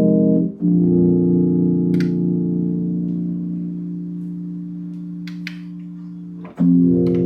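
Yamaha DX1 FM synthesizer playing sustained, organ-like pad chords. A short chord changes to one held for about six seconds that slowly fades, then a new chord comes in near the end.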